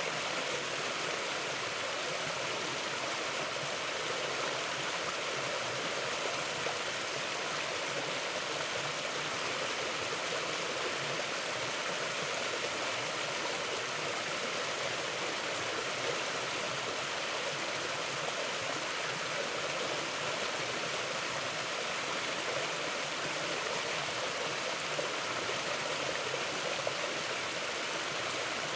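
Flowing mountain stream: a steady rush of water running over rocks, even throughout with no breaks.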